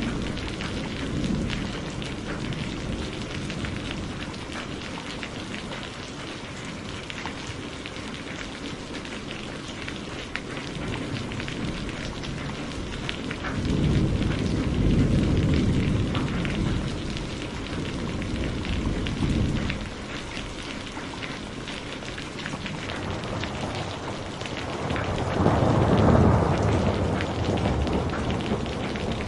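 Rain falling steadily with a patter of drops, joined by a low rumble of thunder about halfway through and another, louder rumble near the end.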